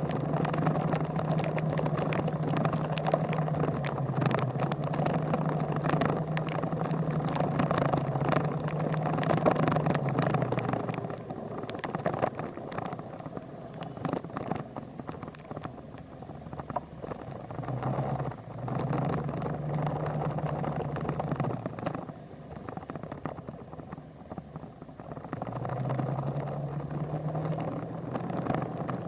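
A vehicle engine running with a low steady hum. The hum drops out about ten seconds in and comes back twice, over a rough background noise with many small clicks.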